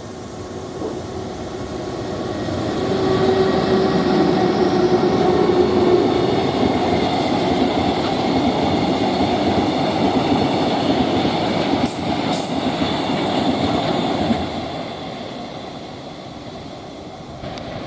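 Freight train hauled by an EH200 electric locomotive passing at speed, its wagons rumbling on the rails. The sound builds over the first three seconds, holds steady with a few sharp clicks about twelve seconds in, then fades from about fourteen seconds.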